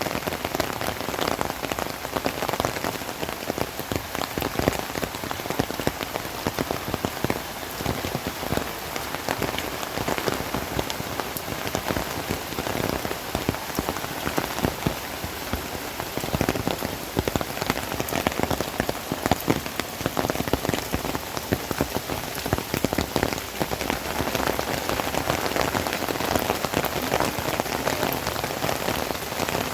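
Heavy rain falling steadily, with a dense patter of drops striking nearby surfaces.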